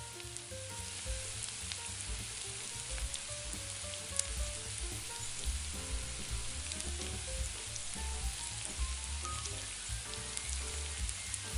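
Chopped roasted red bell peppers and onions frying in olive oil in a stainless steel pan, sizzling steadily as they are stirred with a metal spoon.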